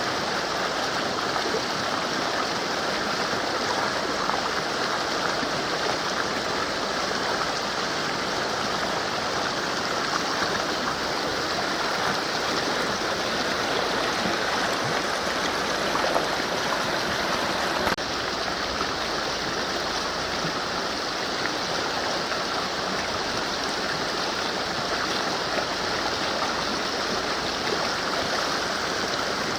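Mountain river flowing, a steady dense rush of water. It turns slightly softer and duller a little past halfway.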